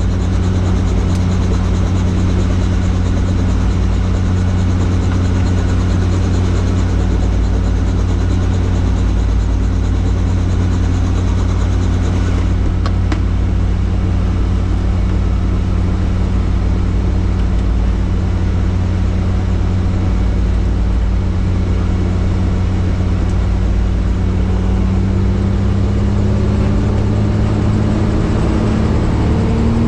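Helicopter turbine and rotor running steadily as a loud, continuous drone, its pitch rising slightly near the end.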